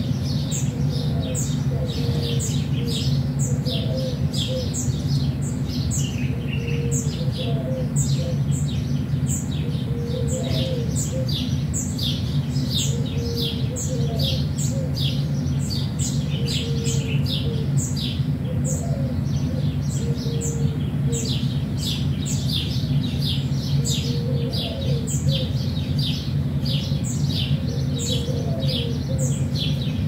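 Many small birds chirping and tweeting in quick, overlapping calls, over a steady low hum. Now and then there is a short, lower call.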